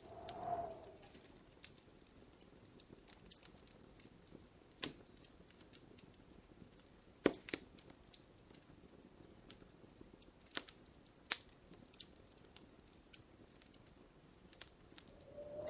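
Wood fire crackling in a fireplace: a steady scatter of small ticks with a few sharper pops. A bird coos briefly just after the start and again at the end.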